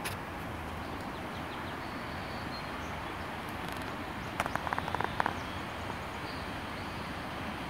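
Outdoor nature ambience: a steady rushing background with a few faint, high bird chirps. A quick run of sharp clicks or taps comes about four and a half seconds in.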